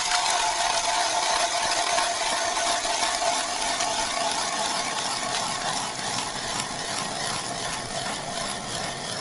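A small motor running steadily with a hissing noise over a held tone, easing slightly in level toward the end.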